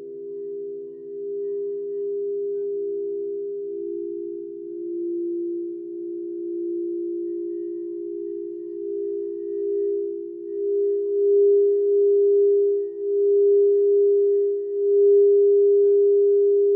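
Crystal singing bowls sounding together as steady, overlapping sustained tones with a slow wavering pulse, swelling louder in the second half.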